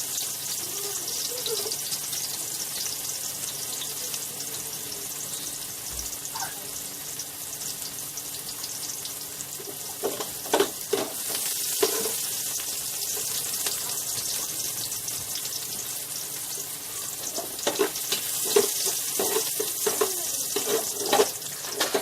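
Garlic, onion and ginger sizzling steadily as they sauté in hot oil in a pan. A spatula stirs and scrapes the pan in short strokes about halfway through and again near the end.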